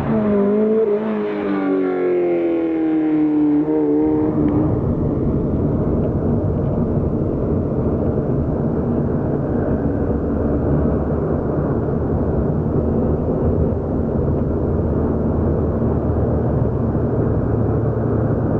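Lotus sports car engine revving, its note gliding up and down and falling over the first four seconds like a car accelerating past. For the rest, a steady low rumble with no clear pitch.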